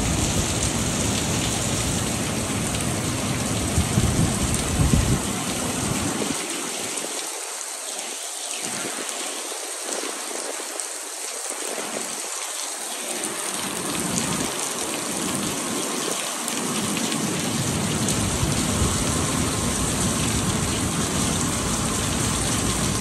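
Heavy tropical-storm rain falling hard in a dense, steady hiss. Under it a low rumble drops away about six seconds in and builds back after about sixteen seconds.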